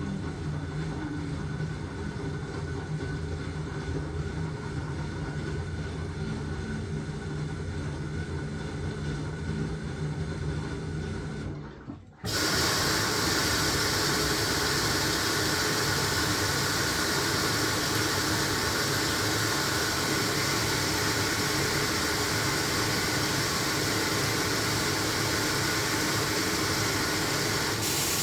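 LG washing machine running with a steady low motor hum. About twelve seconds in, the sound breaks off abruptly and gives way to a much louder, steady rushing hiss of the machine at work.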